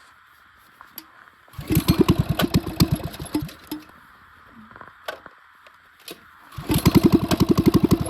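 Gas mini bike's small single-cylinder engine catching and putting in a fast, even pulse for about two seconds, then stopping; it does the same again near the end, typical of a start that catches and dies.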